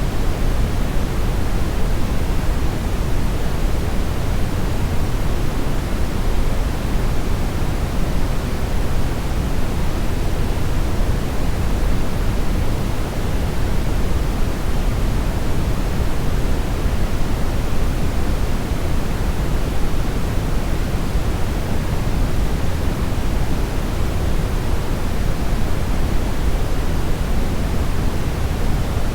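Steady brownish noise: an even, unbroken rush weighted toward the low end, with no events or changes.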